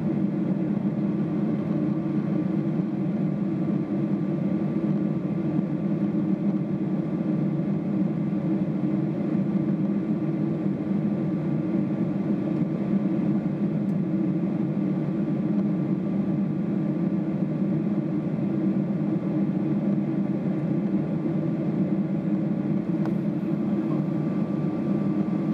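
Steady cabin drone of a Boeing 777-300ER's GE90 engines and airflow, heard from inside the passenger cabin: an even, unchanging rumble with a faint steady tone above it.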